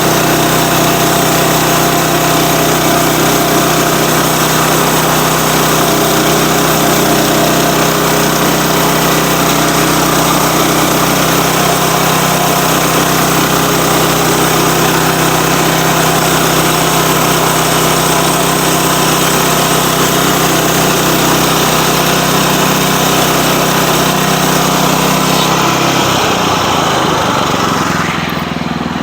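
Sawmill's engine running steadily under load as the saw cuts through a log. Near the end the engine note changes and the cutting noise fades as it drops back toward idle.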